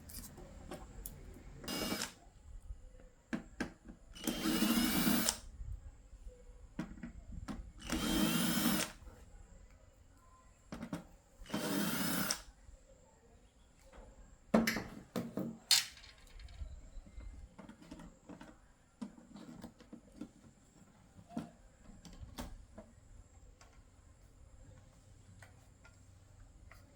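Electric screwdriver or drill running in four short bursts of about a second each, as when driving screws on a TV's back panel, followed by a few sharp clicks and knocks of parts being handled.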